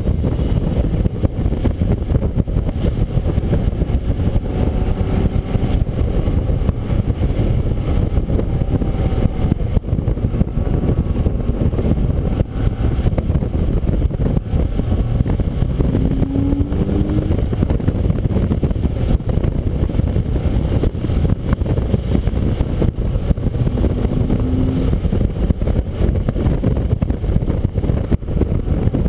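Car driven at speed on a wet race track, heard onboard: a steady, muffled rumble of engine, tyres and wind, with an engine tone showing faintly a few times.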